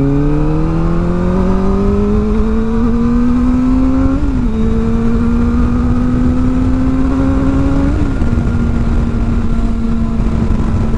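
Kawasaki ZX-4R's inline-four engine, fitted with an aftermarket exhaust, pulling away under acceleration. The pitch climbs, dips briefly at two upshifts about four and eight seconds in, then holds steady.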